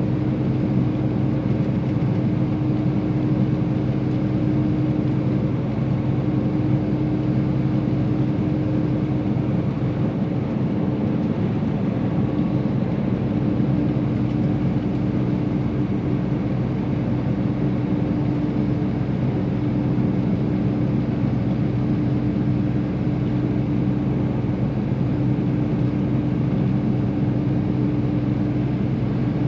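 Semi-truck driving at road speed, heard from inside the cab: a steady diesel engine drone with a constant hum and road noise.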